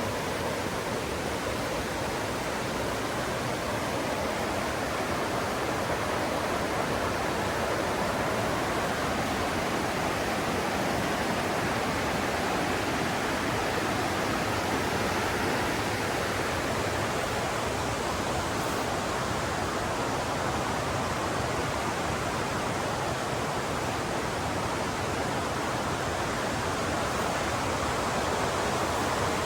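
Mountain river rushing over rocks, a steady, full roar of flowing water.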